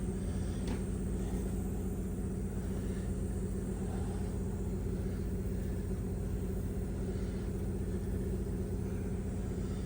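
A steady low mechanical hum from a running motor or engine, holding one constant pitch.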